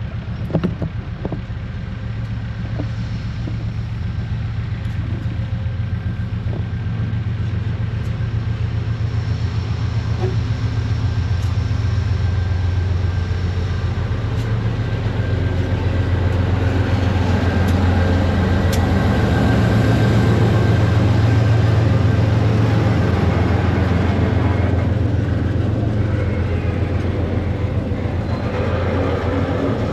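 A freight train rolling past: a steady low rumble of wheels and wagons that swells to its loudest about two-thirds of the way through, then eases toward the end.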